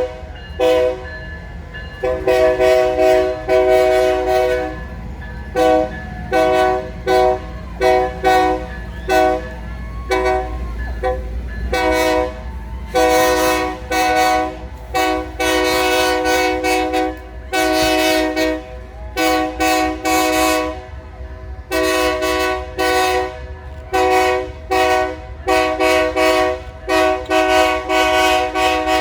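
Locomotive air horn sounded again and again in quick runs of short blasts, broken by a few longer held blasts, over a steady low rumble from the train.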